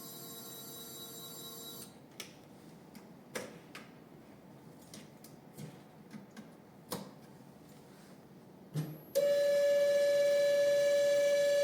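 Stepper motor run by a Berger Lahr D902 drive under test, whining at a steady pitch, stopping about two seconds in. A few light clicks follow, then the motor starts whining again about nine seconds in at a higher, louder, steady pitch.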